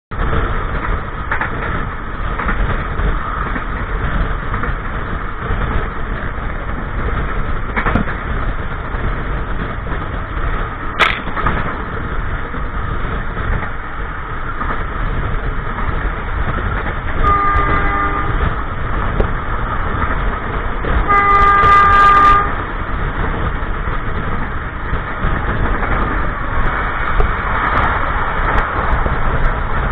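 Passenger train running, with steady wheel-and-rail noise heard from inside the carriage toilet and a couple of sharp clicks. The locomotive horn sounds twice: a short blast about 17 seconds in, then a longer one about 21 seconds in.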